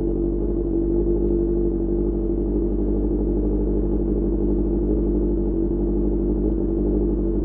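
QJMotor SRK600 inline-four engine running through an Austin Racing GP1R exhaust, holding steady revs while the bike rides.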